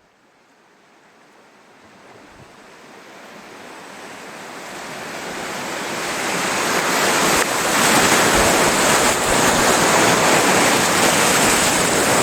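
River rapids rushing, fading in from near silence and growing steadily louder over the first seven seconds or so, then holding as a loud, even rush of whitewater.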